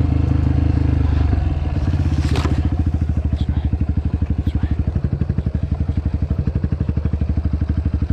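Dirt bike engine running at steady revs, then dropping about a second and a half in to a slower, pulsing low-rev chug. A brief sharp click or knock comes about two and a half seconds in.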